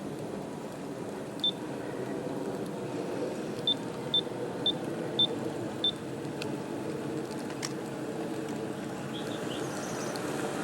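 G-scale model train pulled by four F3 diesel units running along the track, a steady rumble of wheels and motors. Six short high beeps come at uneven intervals in the first six seconds.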